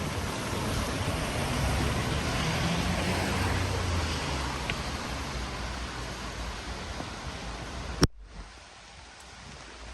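Steady rain hiss, with a low traffic rumble in the first half. About eight seconds in a sharp click, after which the sound drops to a much quieter hiss.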